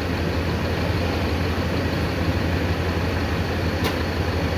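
Mercedes-Benz OF-1519 city bus running, a steady low engine drone mixed with road and body noise. A brief sharp click about four seconds in.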